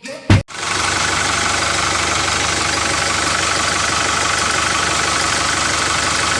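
Small motor running steadily with a fast, even pulse, starting just after two sharp clicks.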